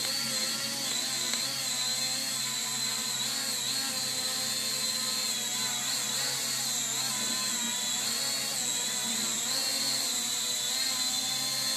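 Small toy quadcopter drone hovering in altitude-hold mode, its motors and propellers giving a steady high whine that wavers slightly in pitch.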